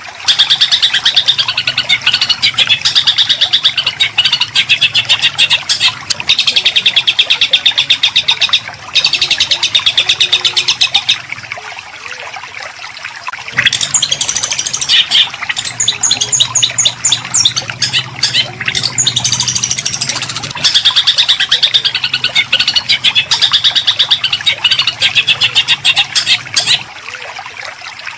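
A songbird singing long phrases of rapid, harsh, tightly packed notes, broken by short pauses; the quietest stretch is a couple of seconds about twelve seconds in.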